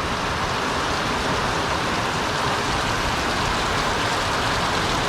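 Heavy thunderstorm rain pouring steadily and evenly.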